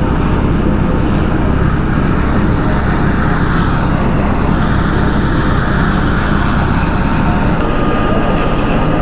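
Helicopter running close by, a steady loud rotor throb with the engine's noise over it.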